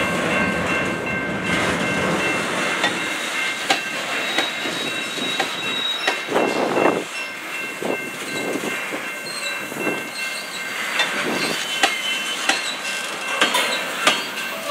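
Freight car wheels rolling through a grade crossing, with sharp irregular click-clacks as the trucks pass over a noisy rail joint. Under the wheel noise a railroad crossing bell rings steadily.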